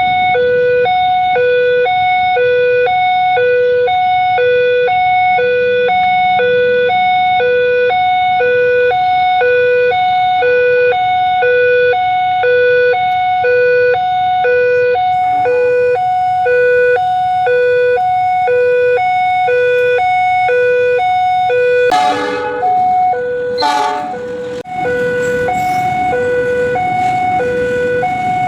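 Railway level-crossing warning alarm sounding a steady two-tone hi-lo signal, alternating about one and a half times a second. About three quarters of the way through, a loud harsh sound cuts across it, then a rushing rumble rises under the alarm as the train nears.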